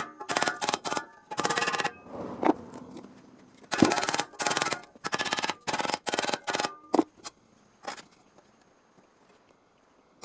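MIG welder laying short plug welds on sheet steel: a series of loud crackling bursts, each lasting under a second, with brief gaps between them, stopping about eight seconds in.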